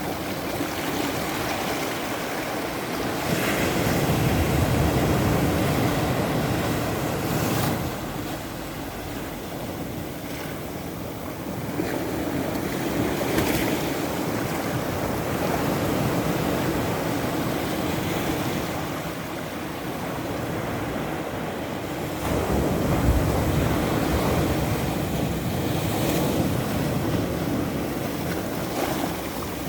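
Ocean surf breaking on the shore, the wash swelling and ebbing in slow surges a few seconds apart, with a few sharper crashes of breaking waves.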